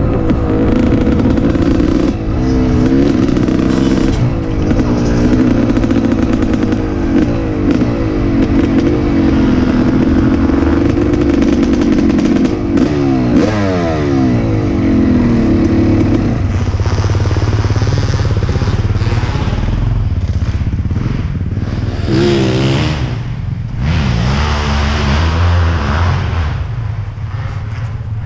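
1988 Suzuki RM250's two-stroke single-cylinder engine running under the rider at low speed, the revs wavering up and down. From about midway it settles lower, with a few short throttle blips near the end.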